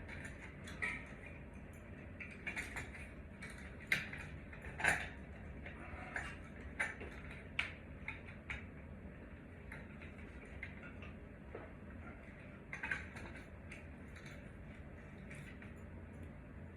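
Scattered light metallic clicks and clinks of small hardware and hand tools being handled during ceiling-fan removal, irregular and a few per second at most, over a low steady hum.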